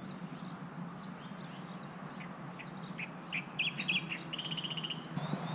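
Small birds chirping: many short, high, downward-sweeping calls, with a quick rattling trill about four and a half seconds in, over a low steady hum.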